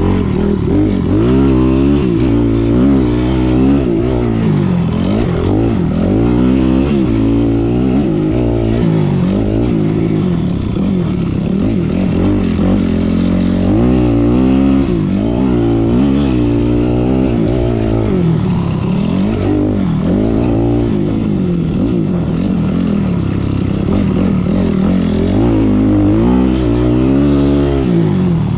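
Motocross dirt bike engine being ridden hard, revving up and dropping back over and over as the throttle opens and closes through the gears.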